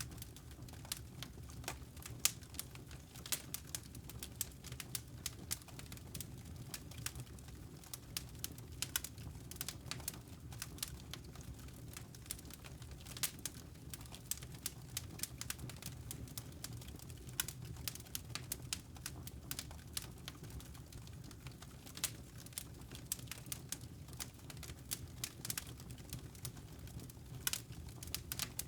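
Wood fire crackling in a fireplace: irregular sharp pops and snaps, several a second, over a steady low rush of burning.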